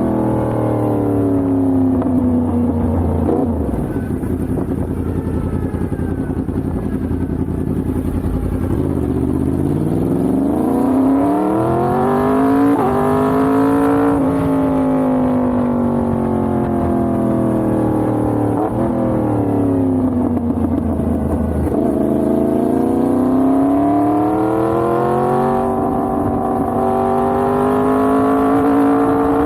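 Yamaha MT-10's crossplane inline-four engine under way, its revs falling, holding low for several seconds, then climbing and easing off again in long sweeps.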